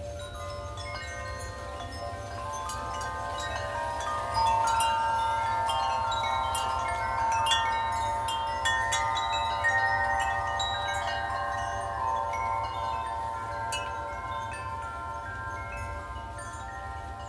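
Wind chimes ringing in gusty wind, many overlapping tones struck again and again. They swell louder about four seconds in and ease off toward the end. A steady low rumble runs underneath.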